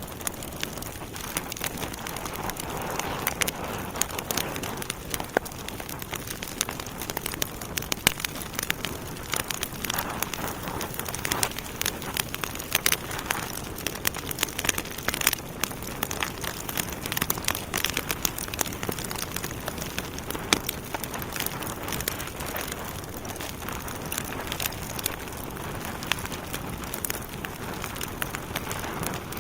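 Wood fire burning in a fireplace, with a steady hiss of flame and many sharp, irregular crackles and pops from the burning logs.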